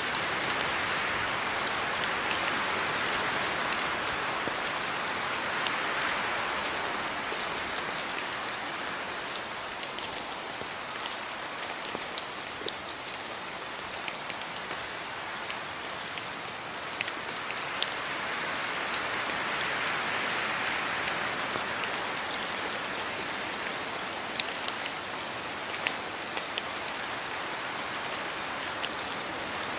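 Steady rain falling on surfaces, with scattered individual drops ticking sharply throughout; the downpour swells and eases slowly over the stretch.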